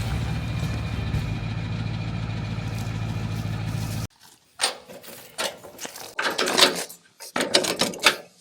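An engine running steadily, which cuts off abruptly about four seconds in, followed by sharp metal clinks and knocks of tools and parts being handled.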